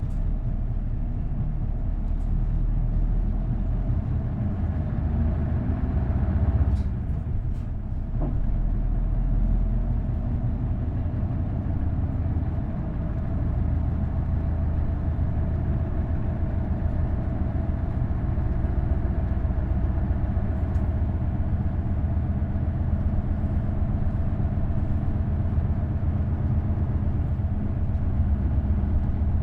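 Isuzu Erga bus's V8 diesel engine with five-speed manual gearbox, pulling hard with its note rising, a gear change about seven seconds in, then climbing again and settling into steady cruising.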